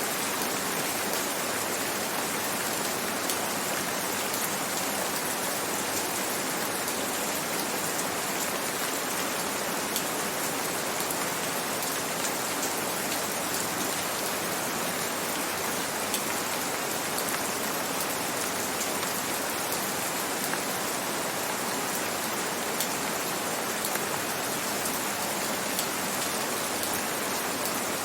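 Steady rain falling: an even hiss with faint scattered ticks of single drops.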